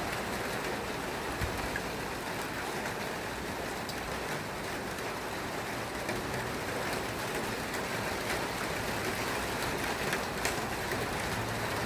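Steady rain falling, a constant even hiss with faint scattered ticks of drops.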